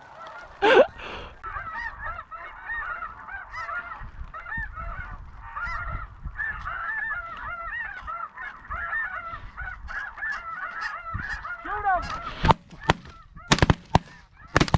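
A flock of snow geese calling steadily, many high honks overlapping, then a quick volley of several shotgun shots near the end.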